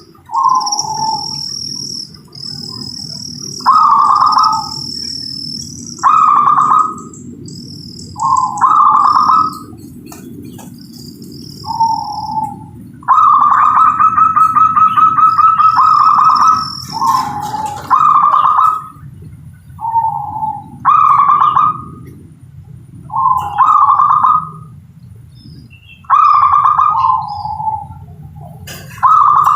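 Zebra dove (perkutut, local Indonesian type) cooing repeatedly in short rolling phrases every couple of seconds, with one long rolling coo of about three seconds midway. A high thin steady note sounds over the first half.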